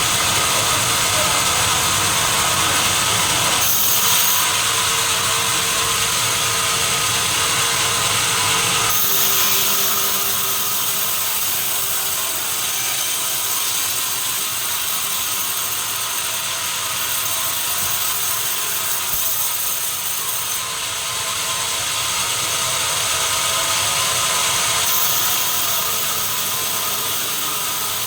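Sawmill machinery running continuously while cutting timber: a loud, steady mechanical noise with whining tones, its character shifting a few times.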